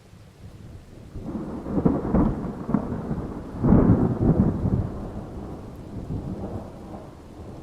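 Thunder rolling over steady rain hiss. The rumble swells about a second in, cracks loudest twice, at about two and four seconds, then rolls away.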